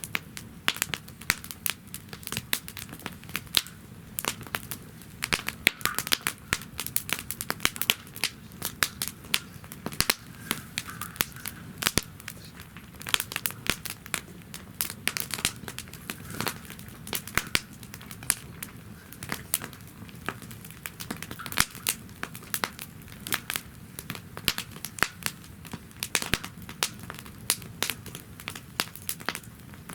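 Wood fire burning in a fire-pit stand, crackling with many sharp, irregular pops over a low steady rush of flame.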